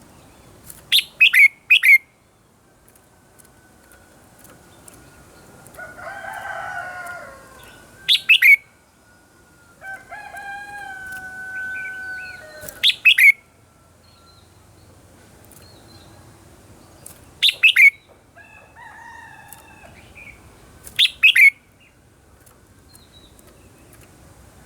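Red-whiskered bulbul singing: five short, loud phrases of quick, sweeping whistled notes, each about a second long and several seconds apart. In between, a second bird gives two longer, drawn-out calls, one about a quarter of the way in and one near the middle.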